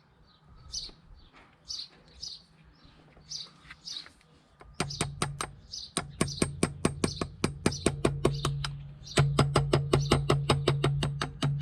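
Rapid light hammer taps on metal, about five a second, driving a new seal into a Mercedes CLK W208 front wheel hub. A steady low hum runs under the taps, and birds chirp before they start.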